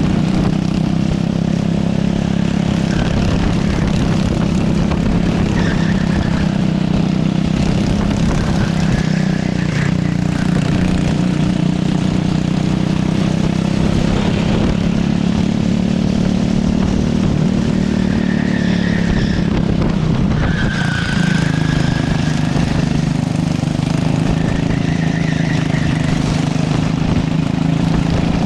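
Racing kart engine running hard at speed, its note rising and falling a little as the kart goes through the corners, dipping briefly about twenty seconds in before picking up again, over a heavy low rumble.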